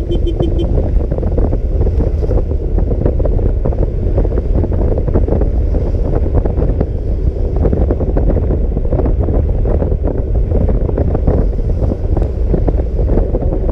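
Wind buffeting the microphone of a scooter rider in heavy rain, a steady loud rumble with crackling over it and the scooter's engine and road noise underneath. A short run of beeps sounds right at the start.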